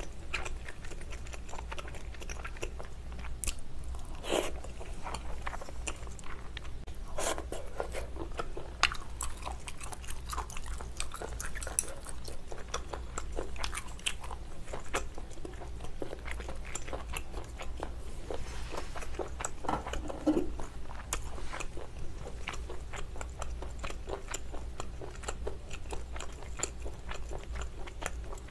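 Close-miked chewing and biting of malatang (Sichuan spicy hot-pot) ingredients: a steady run of small wet smacks and clicks, with a few louder bites now and then.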